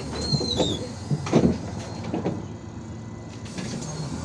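Inside an IVECO Urbanway 18M articulated city bus on the move: steady running noise with several knocks and rattles, and a short high squeak that drops in pitch near the start.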